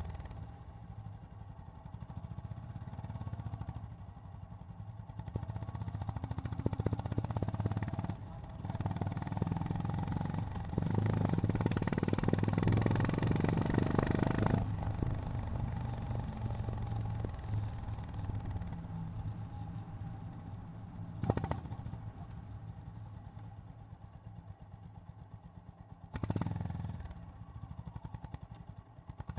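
Honda GB350's air-cooled single-cylinder engine running under way. It gets louder as the throttle is opened for a few seconds about a third of the way in, then eases back. A sharp click comes a little past the middle, and a short louder burst near the end.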